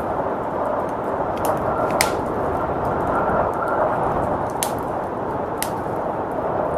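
Blizzard wind rushing steadily, mixed with a wood fire crackling in a fireplace: scattered small snaps and a few sharper pops, one about two seconds in and two more in the second half.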